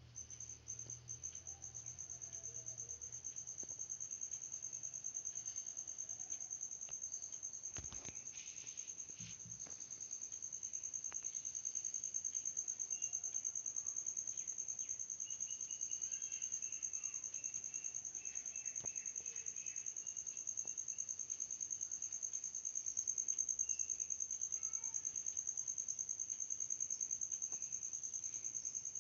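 Steady high-pitched insect trill, finely pulsed, running without a break, with a fainter lower trill joining for a few seconds midway.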